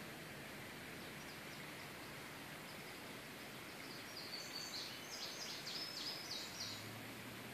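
A small bird singing a quick phrase of short, high chirps a few seconds in, over a steady faint hiss.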